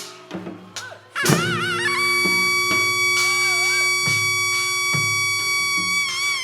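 Korean traditional music accompanying a Jindo drum dance: a few drum strokes, then about a second in a loud reedy wind instrument comes in with a wavering note and holds one long high note, over a steady low drone and drum beats roughly once a second.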